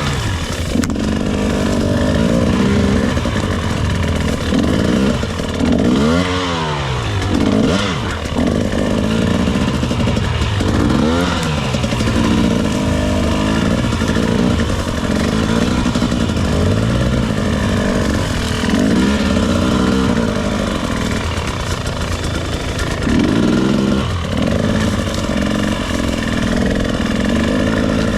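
Two-stroke dirt bike engine revving up and down over and over as it is ridden, with the pitch rising and falling every few seconds as the throttle opens and closes.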